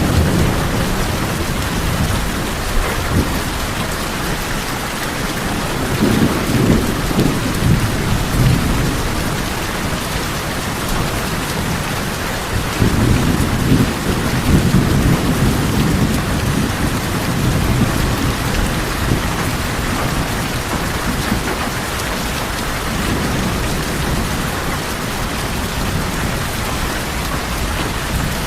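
Steady heavy rain drumming on tin roofs, with several low rolls of thunder swelling and fading away underneath it.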